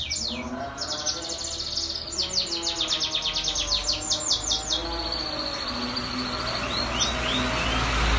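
Domestic canary singing: fast trills of rapidly repeated high notes, then a long held whistled note a little past halfway, followed by short rising chirps.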